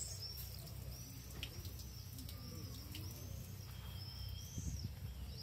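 Small bird calling a repeated high chirp, about two a second, over a steady low rumble of distant street traffic.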